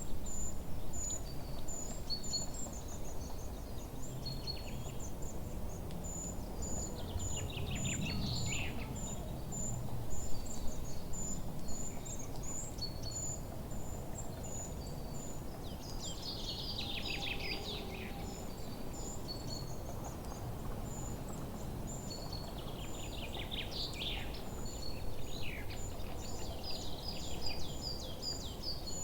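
Forest ambience with songbirds: a thin, very high note repeats several times a second throughout, while bursts of song falling in pitch come three times, about 8, 17 and 24 seconds in, over a steady low rumble.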